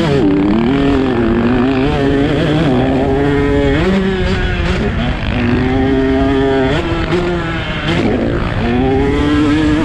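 Husqvarna TC 125's 125 cc two-stroke single engine revving hard under race throttle, its pitch climbing and then dropping sharply about three times as the rider shifts or chops the throttle.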